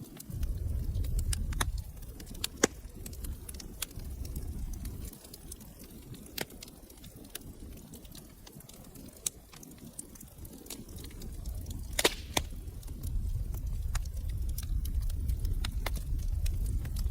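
Wood fire in a fireplace crackling, with irregular sharp pops, the loudest about 2.5 s and 12 s in, over a low rumble of the flames that swells at the start and again in the last few seconds.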